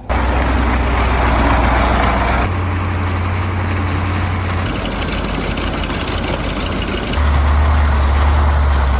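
KAMAZ 4310 6x6 truck's V8 diesel engine running, heard in four short clips cut together: a steady low engine note whose pitch and loudness change abruptly at each cut, about every two seconds.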